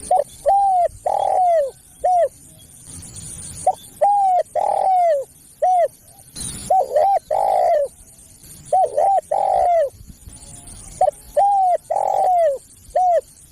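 Spotted dove cooing: phrases of four or five arching coos, each phrase repeated every two to three seconds.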